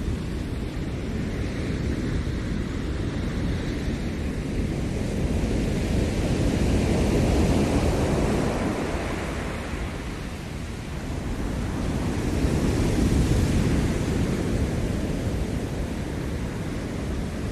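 Ocean surf washing onto the shore in a continuous rushing wash that swells twice, once about halfway through and again later on.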